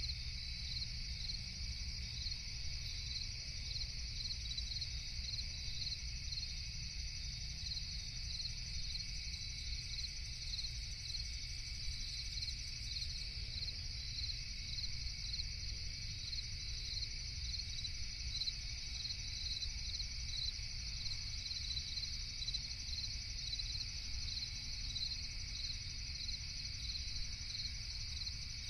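A night chorus of crickets: a continuous high trill with regular, evenly spaced chirps, over a steady low rumble.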